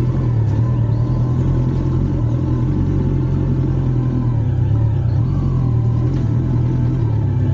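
Motorcycle engine running steadily at low revs, a constant low rumble.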